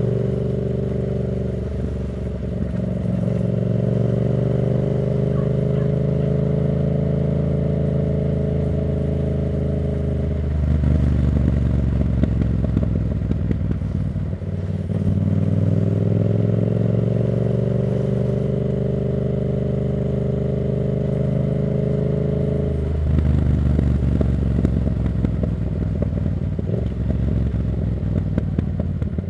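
Yamaha MT-07's parallel-twin engine through an aftermarket Black Widow exhaust, under way. Its pitch climbs slowly through long pulls in the revs, broken about ten seconds in and again past twenty seconds by rough, crackly stretches as the throttle changes.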